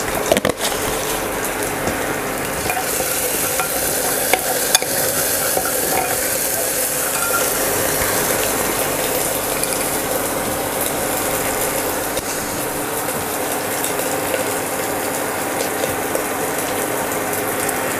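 Onion-and-spice masala sizzling steadily in hot oil in a pressure-cooker pan as it is stirred with a metal spoon, with a few sharp clicks of the spoon against the pot near the start and around four to five seconds in.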